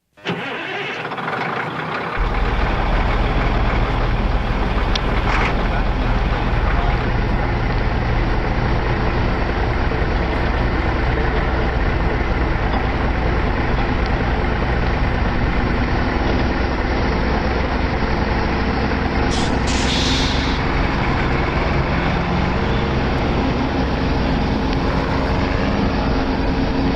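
Motor vehicle engine and road noise, a steady rumble that gets louder about two seconds in. A short hiss comes about 20 seconds in.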